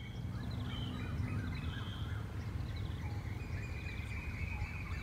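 Birds chirping in short, quick phrases over a steady low outdoor rumble; a thin, steady high tone joins about halfway through.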